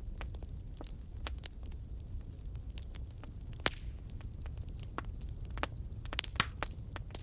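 Fire in a fireplace crackling: irregular sharp pops and snaps over a low steady rumble of the flames, with a louder pop about three and a half seconds in and a quick run of snaps a little after six seconds.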